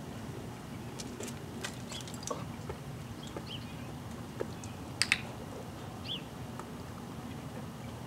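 A bird chirps briefly every few seconds over a low steady outdoor rumble, with scattered light clicks and two sharp clicks in quick succession about five seconds in.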